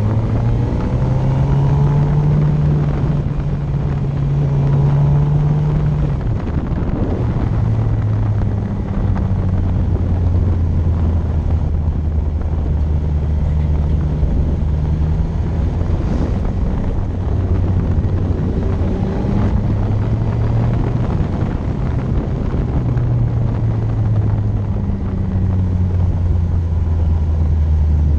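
Motorcycle engine running under way, its low hum stepping up and down in pitch every few seconds, over a steady rush of wind noise.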